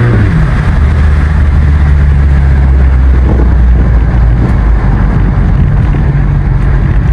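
Sports car engine and exhaust while driving: the revs drop just as it begins, then it settles into a steady low drone at cruising speed.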